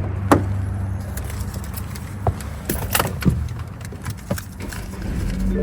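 Low steady hum of a car with a few sharp clicks and knocks scattered through, as it is readied to drive off.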